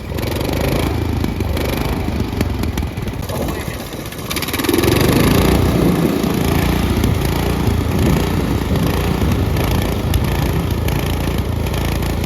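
An engine running steadily, growing louder about four seconds in.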